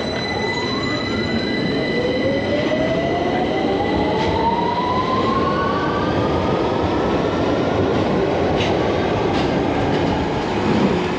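London Underground Victoria line train pulling out of the platform, its motors whining steadily higher in pitch as it accelerates over the rumble of its wheels.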